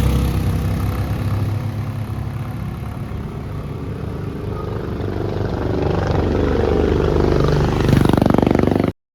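Motorcycle engine running while riding, its pitch easing off and then climbing as it revs up near the end, before the sound cuts off suddenly.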